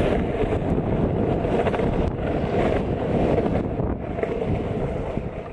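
Longboard wheels rolling fast over pavement through a dip, with wind buffeting the microphone; the noise eases off near the end as the board slows.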